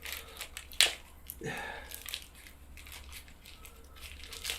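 Packaging being handled and unpacked: crinkling and rustling, with one sharp click a little under a second in.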